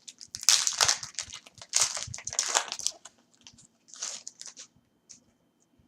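Trading-card pack wrapper being torn open and handled, a run of crackly rustles over about three seconds with a few more about four seconds in.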